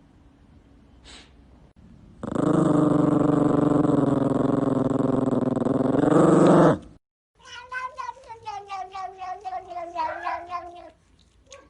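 A cat yowling: one long, loud, drawn-out call of about four and a half seconds, cut off suddenly. After a short gap comes a second wavering, rapidly pulsing cat call that slowly falls in pitch.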